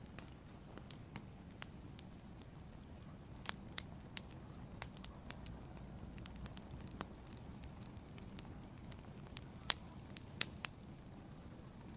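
Wood fire burning in a fireplace: a low steady rumble with scattered sharp crackles and pops, a handful standing out louder, a few seconds apart.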